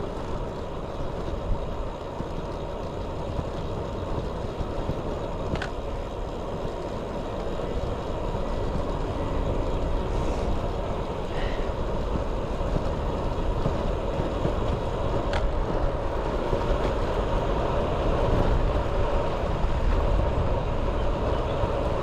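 Steady wind rush on an action camera's microphone, with rumble from a road bike's tyres, while riding along. A couple of sharp ticks come about a third and two-thirds of the way through.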